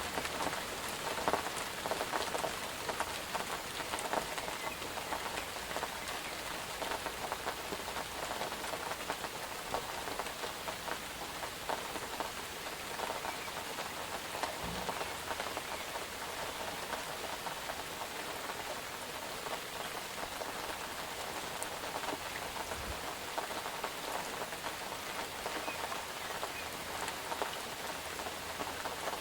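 Steady rain falling on a surface, a dense even hiss full of small drop ticks.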